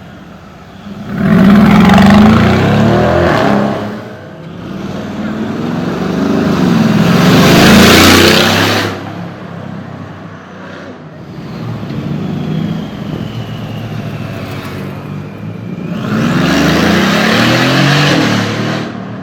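Mercedes-AMG G-Class (G-Wagon) engine revving and accelerating hard in three loud surges, about a second in, around eight seconds and near the end.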